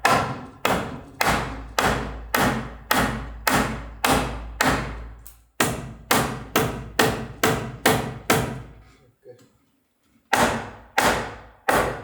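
Repeated hammer blows, about two a second, driving a tight-fitting piece into place. They stop for a moment about three quarters of the way through, then start again.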